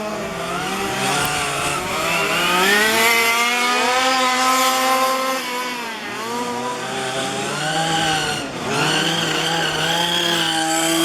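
Several 1:5-scale petrol RC cars' small two-stroke engines racing together, each one's pitch rising and falling over and over as they speed up and slow down, overlapping one another.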